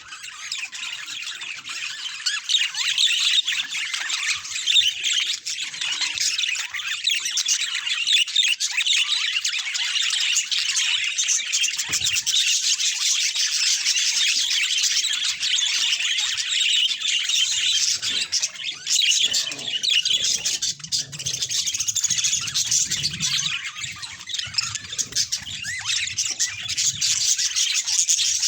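Budgies chattering and warbling without a break: a dense stream of rapid chirps and squawks.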